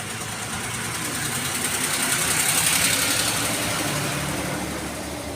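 A motor vehicle passing by, its engine and tyre noise swelling to a peak about halfway through and then fading away.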